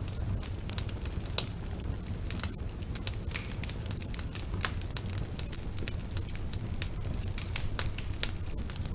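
Wood fire in a fireplace crackling: frequent irregular sharp pops and snaps over a low steady rumble of the burning fire.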